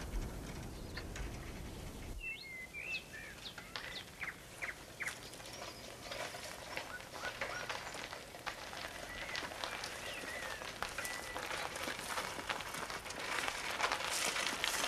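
Woodland birds chirping. Toward the end a bicycle approaches, its tyres on the gravel lane and ticking freewheel growing louder.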